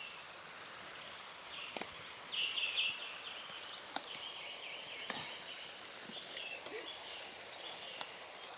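Outdoor woodland ambience: birds chirping briefly over a steady high hiss, with a few sharp clicks or snaps, the loudest at about four seconds and again near five seconds.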